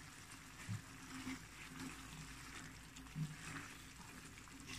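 Faint, steady sizzling of chicken karahi frying in oil in the pan, with two brief soft low sounds about a second in and near three seconds in.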